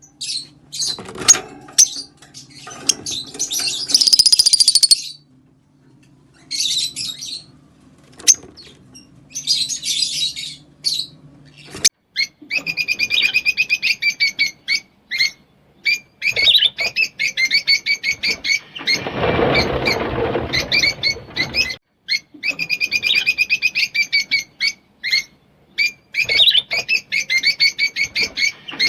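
Rosy-faced lovebirds chirping and chattering: scattered calls and short high screechy bursts at first, then fast runs of rapid repeated chirps from about halfway. About two-thirds through, a louder, rough rushing sound lasts about two seconds.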